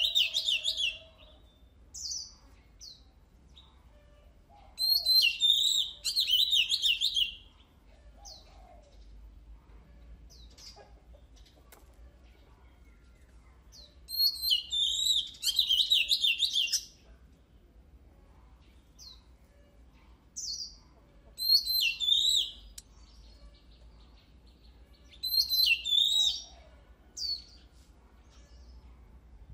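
Oriental magpie-robin singing in about five bursts of rapid, high whistled phrases several seconds apart, with short single notes in between.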